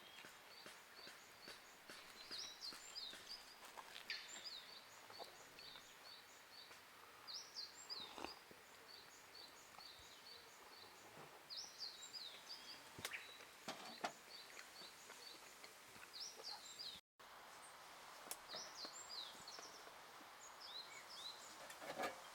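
A songbird singing over and over, faint and high-pitched; each phrase is a quick sweeping note followed by a run of short, even notes. Scattered faint clicks and knocks.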